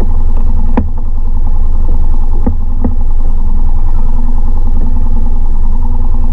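Mercury 3.5 hp outboard motor running steadily at a constant speed, with a few brief knocks.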